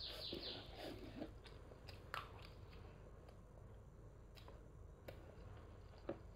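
A child chewing food quietly with her mouth, with a few faint mouth clicks spread through.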